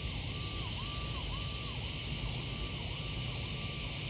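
A faint siren wavering, dipping and returning about twice a second, over a loud, steady high-pitched chorus of night insects.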